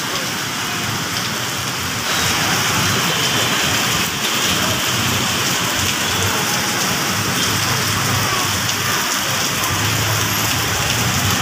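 Heavy pouring rain, a dense steady hiss, a little louder from about two seconds in.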